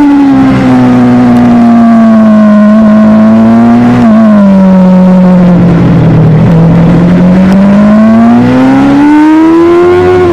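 Superbike engine heard from on board. The revs fall gradually for about six seconds, with a brief blip about four seconds in, then climb again as it accelerates.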